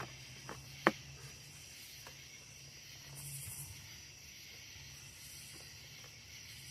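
A sharp plastic click just under a second in, with a fainter one just before it, as the parts of a cordless leaf blower are snapped together. After that only a faint steady hiss.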